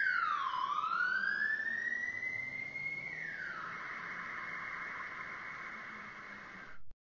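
Electronic police siren: one slow wail falling and rising in pitch, then switching about three seconds in to a fast yelp that fades a little and cuts off suddenly near the end.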